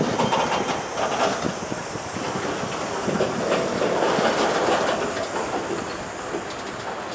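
Freight train passing: covered grain hopper cars rolling on steel wheels over the rails, a steady running noise with faint irregular clicks of wheels over the track.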